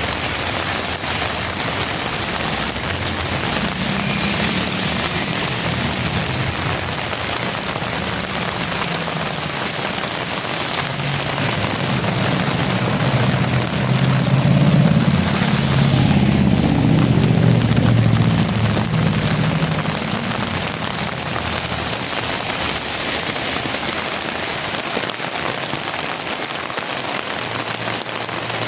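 Heavy rain falling steadily, with a low rumble that swells for several seconds in the middle and then fades away.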